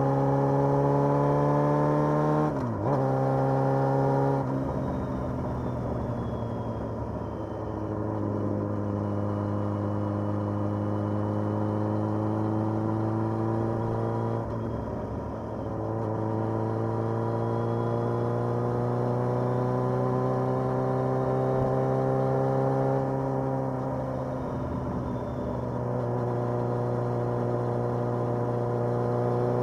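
Motorcycle engine running under way, its pitch climbing steadily with throttle and falling back several times. There are brief dips at gear changes about three seconds in and about halfway through, and a slower drop in pitch and level about three-quarters of the way through as the bike eases off.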